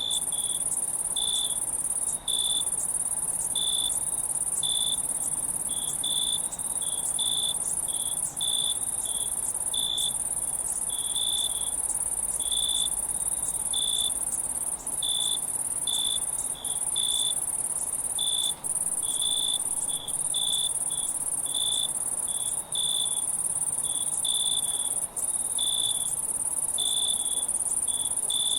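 Insects chirping in a chorus: a steady, very high trill that breaks off briefly now and then, with a lower chirp repeating irregularly about once or twice a second.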